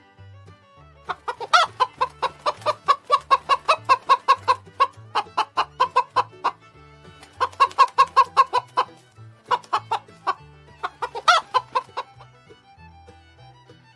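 Chicken clucking in quick repeated runs, several a second, with a louder squawk near the start and another near the end.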